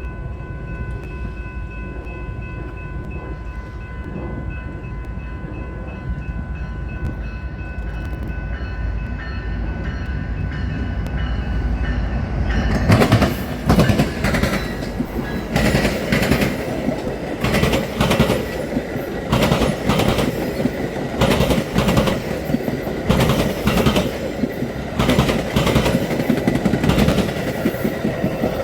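A train drawing closer with a building rumble and a steady high tone, then passing close from about 13 seconds in, its wheels clattering in rapid repeated clacks over the rail joints and the diamond crossing.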